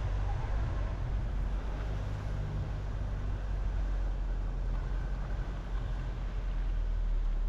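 A car driving along a road: a steady low rumble of engine and tyres with an even hiss of road noise.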